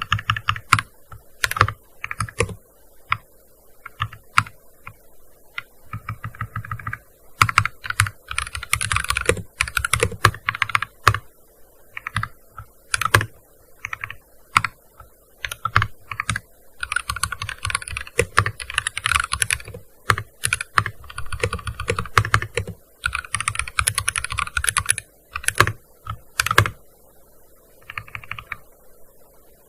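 Typing on a gaming keyboard: quick runs of keystrokes broken by short pauses, with a few louder single key strikes standing out.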